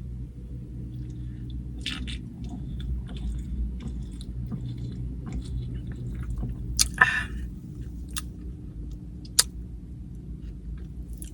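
Close-miked chewing of carne asada nachos, with scattered crunches and wet mouth clicks, a few sharper ones about seven and nine seconds in, over a steady low hum.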